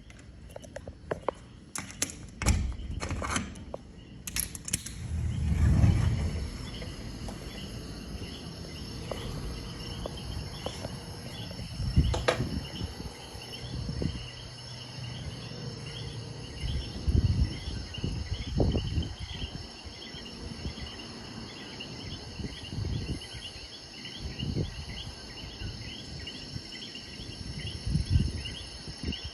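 Insects chirping steadily in a fast, even, high-pitched pulse. Irregular low thumps and a few sharp clicks come over it, loudest around the first quarter and the middle.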